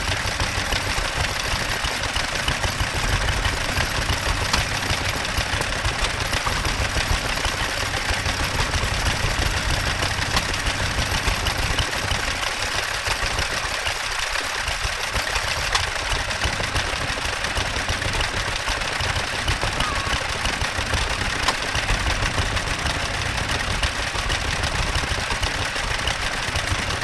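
International Harvester 1½ hp stationary engine running steadily, with a fast, even beat.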